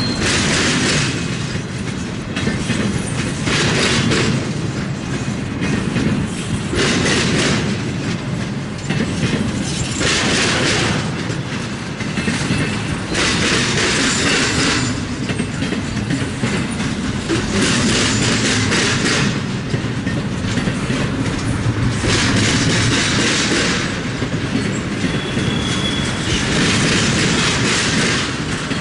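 Freight train cars rolling past at close range: a steady low rumble with a surge of rattling wheel-and-rail clatter every few seconds as each car goes by.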